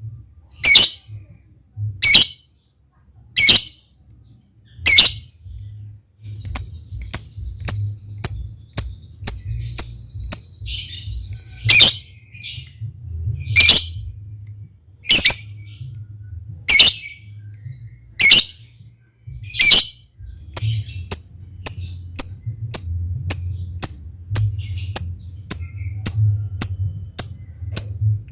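Lovebird giving loud, sharp, high-pitched chirps about every second and a half, joined about six seconds in by a fast run of short ticking calls, about three a second (the 'ngetik' ticking). A low steady hum runs underneath.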